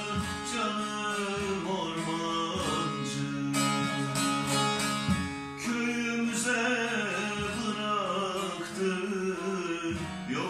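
Instrumental interlude of a Turkish folk song, played on plucked string instruments with a melody over sustained accompanying notes.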